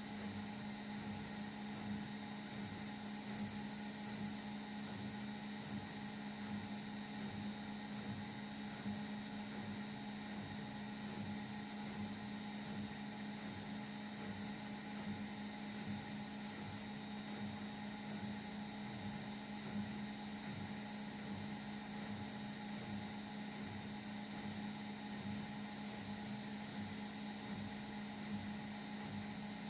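Steady electrical hum from an Indesit washing machine running in its diagnostic test mode.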